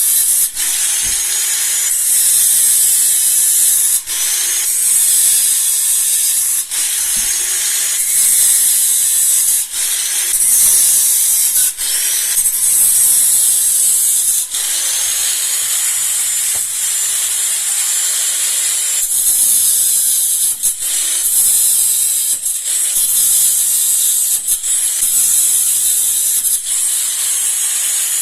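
Angle grinder cutting: a loud, high, steady whine with short dips every couple of seconds, the pitch climbing back up after each one.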